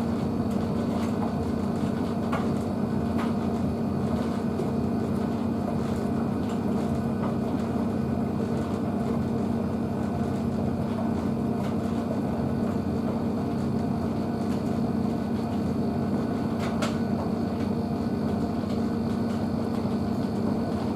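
Blomberg WNF9448 washing machine's drum tumbling a load of dog bedding, its motor running with a steady hum in a struggling tumble. A few faint clicks and knocks from the load turning sound over it.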